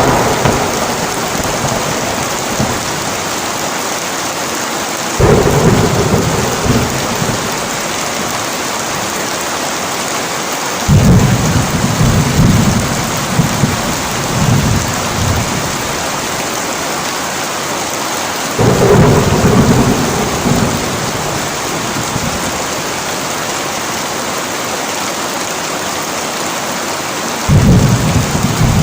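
Heavy rain pouring steadily, with five rolls of thunder, each breaking in suddenly and rumbling for a few seconds.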